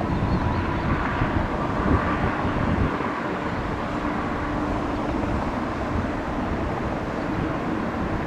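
Jet airliner engines running, a steady broad rush with a faint steady whine.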